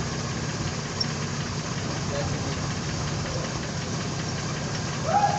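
Mercedes-Benz C350 4MATIC's 3.5-litre V6 engine idling steadily.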